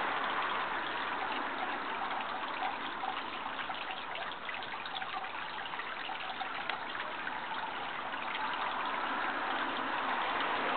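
Running water trickling steadily, a constant splashing hiss full of fine droplet ticks.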